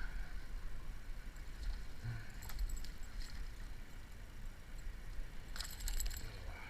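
Two brief bursts of light rattling, a few seconds apart, over a steady low rumble.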